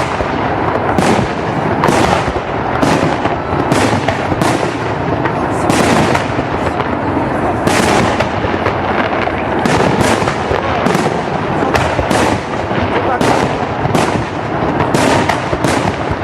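Fireworks salute: aerial shells bursting one after another, about one to two bangs a second, each trailing off in an echo over a continuous rumble of the display.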